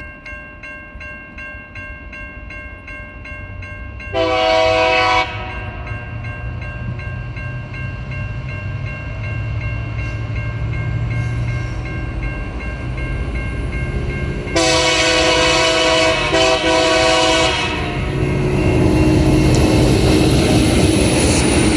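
Diesel freight locomotive approaching a level crossing and sounding its multi-note air horn: a short blast about four seconds in, then a long blast of about three seconds with two quick breaks. Under the horn, the crossing's warning bells ring steadily and the locomotive's engine and wheels grow louder as the train nears.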